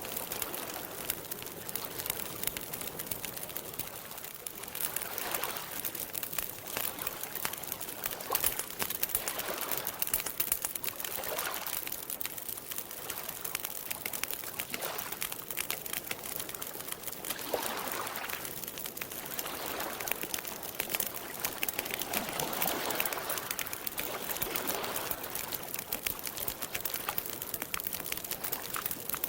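Campfire crackling with a steady stream of small pops and snaps, over soft swells of lake water lapping every few seconds.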